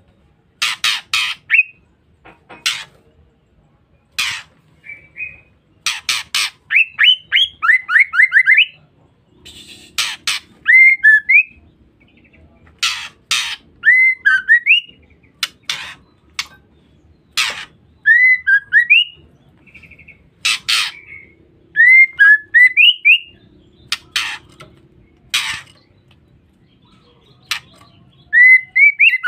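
Female white-rumped shama calling: short harsh rasping calls (the 'ngeriwik' chatter) repeated every second or two, mixed with short rising whistled notes, once in a quick run of several.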